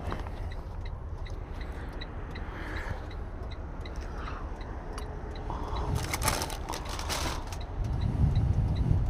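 Low steady rumble of an idling vehicle, with a faint high tick repeating evenly about twice a second and a short burst of rustling noise about six seconds in.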